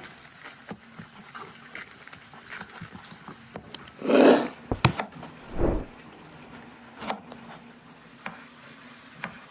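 Onion being peeled and cut by hand: scattered light knife taps and scrapes on a board, with a louder crunching rustle about four seconds in and another thud-like rustle near six seconds.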